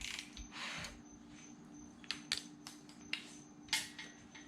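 Faint scattered light clicks and taps over a steady low hum.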